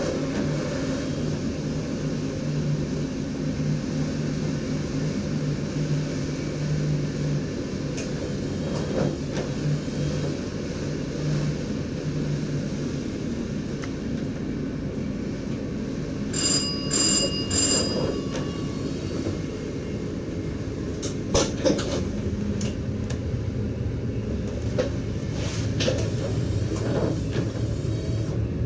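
Steady running rumble of a DDZ double-deck electric train heard from the driver's cab, with a low hum that fades out about halfway through. About sixteen seconds in, three short high-pitched electronic beeps sound in quick succession, followed later by a few sharp clicks.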